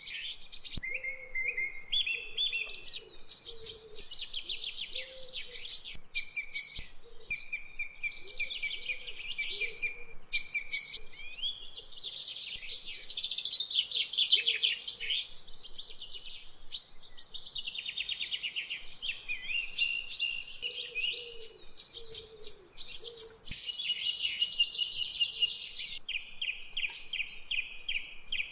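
Small birds chirping and singing without a break, in rapid trills of repeated notes and short whistled phrases.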